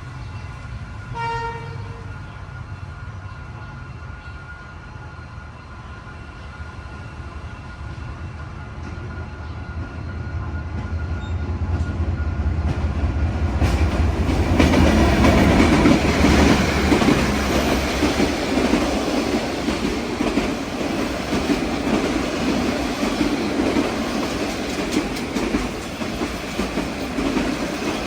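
A train horn gives one short blast about a second in. Then the train's rumble builds from about ten seconds in, and its wheels run loudly and steadily over the rails for the rest.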